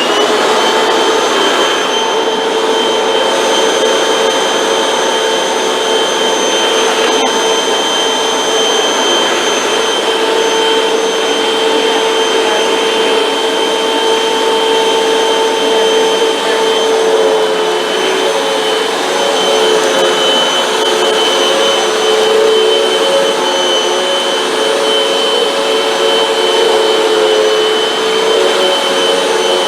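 Hoover WindTunnel 2 bagless upright vacuum cleaner motor spinning up as it is switched on, then running steadily with a high whine over a rushing of air. Its pitch wavers slightly in the second half.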